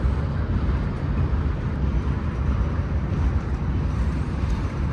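Freight cars of a long, heavy manifest train rolling past close by: a steady low rumble of steel wheels on the rails.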